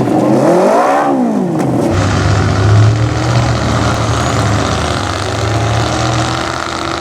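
Off-road vehicle engine revving up and dropping back in the first two seconds, then running steadily at a low, even pitch.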